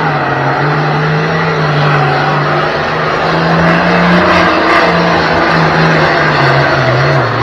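1971 International 766 pulling tractor's engine running hard under load as it drags the sled down the track. Its pitch wavers, then sags lower near the end of the pull.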